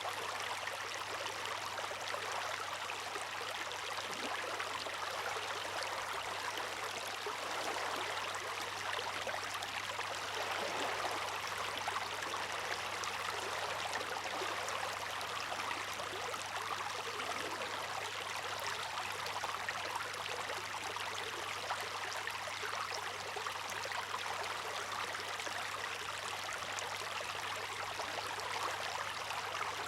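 Steady, even rush of running water, with no rise and fall in loudness.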